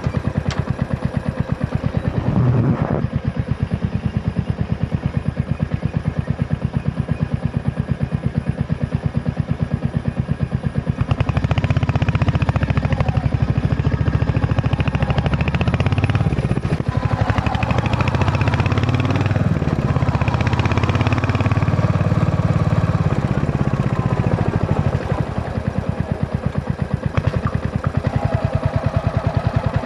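Royal Enfield Hunter 350's single-cylinder engine running with a steady, even thump. About eleven seconds in it grows louder and fuller for roughly fourteen seconds, then settles back.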